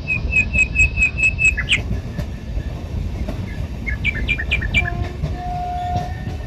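Passenger train running at speed, a steady low rumble of wheels on track heard from aboard a coach. A quick run of high chirps sounds over the first second and a half, and again briefly about four seconds in.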